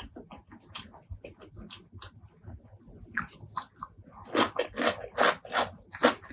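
Close-miked mouth sounds of eating pork leg curry and rice: faint small clicks at first, then from about four seconds in loud, rapid chewing at about four strokes a second.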